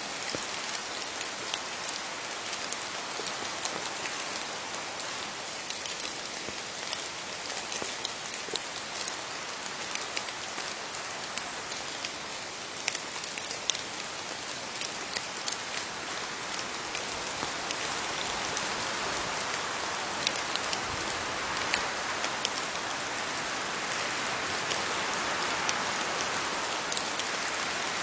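Steady rain falling on leaves, an even hiss dotted with the sharp ticks of single drops striking close by; it grows a little heavier about two-thirds of the way through.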